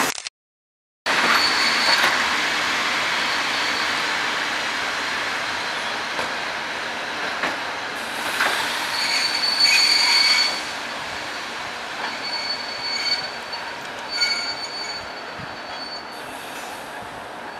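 Locomotive-hauled passenger train rolling past, with wheels squealing in thin, high tones that are loudest about ten seconds in. The sound drops out completely for about a second at the very start.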